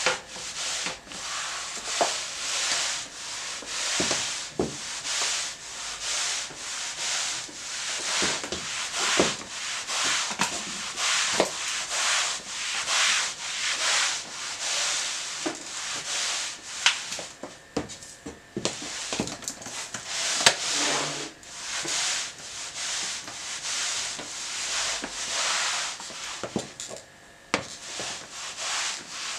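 Mop pushed back and forth across a hard floor: repeated swishing rubbing strokes, roughly one a second, with occasional sharp clicks.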